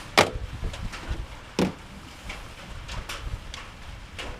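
Hands working in the Toyota Yaris 1NZ-FE engine bay, unplugging and pulling the ignition coil packs to swap number 2 and number 3: a few sharp clicks and knocks, the loudest about a quarter second in and another about a second and a half in, with softer ones later.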